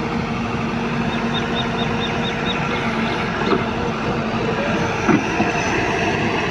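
Heavy diesel machinery running steadily with a low hum, with two short knocks about three and a half and five seconds in.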